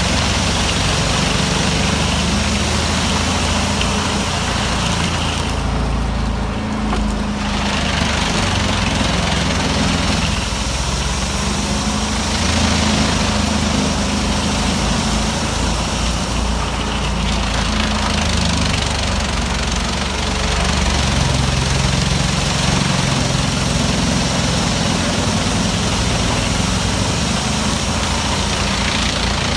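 Large wood chipper's engine running steadily under load, with a harsh hiss over it that briefly drops away about six seconds in and again near seventeen seconds.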